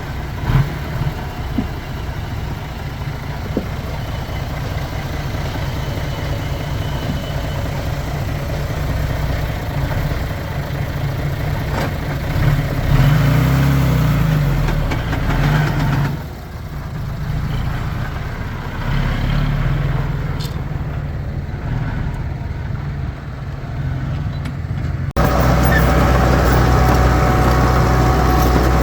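Heavy diesel earthmoving machinery running, a low engine rumble that swells and eases as it works. About 25 seconds in it cuts abruptly to a louder, steadier engine drone.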